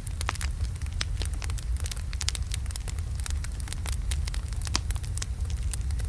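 Wood fire of large burning logs in a fireplace, crackling with many sharp irregular pops over a steady low rumble of the flames.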